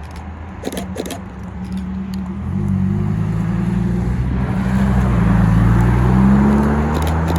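A car engine approaching unseen, coming in about two and a half seconds in and getting louder, with its pitch rising briefly near the end. A few sharp clicks sound in the first second.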